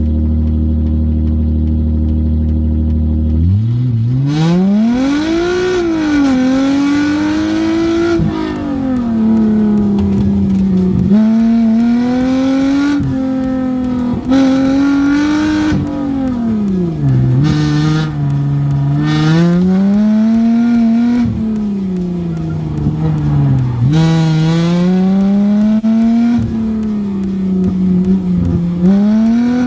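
Car engine idling steadily, then launching hard about three and a half seconds in and revving up and down over and over as the car is driven flat out through an autocross course, its pitch rising under acceleration and dropping on each lift or shift.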